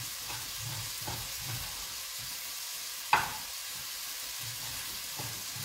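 Soffritto of vegetables sizzling steadily in oil in a steel pot, with a kitchen knife cutting meat on a wooden cutting board; a sharp knock about three seconds in and a few fainter ones.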